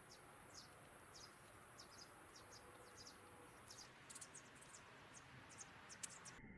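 Faint outdoor ambience with short high-pitched chirps, evenly spaced at about one every half second at first, then quicker and irregular in the second half.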